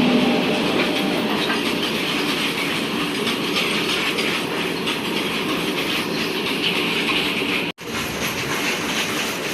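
A train running past on the track, its wheels clicking over the rail joints in a steady, loud rush. The sound drops out for an instant near the end.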